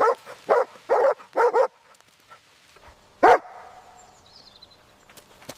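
German Shepherd barking: four quick barks about two a second, then one more bark after a pause of about a second and a half.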